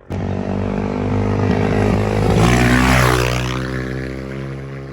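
Dirt bike engine passing by under throttle, growing louder to its closest point about three seconds in, then fading as it rides away.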